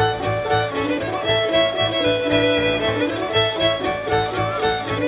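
Live contra dance band: a fiddle playing a lively reel melody over a piano keeping a steady, driving beat.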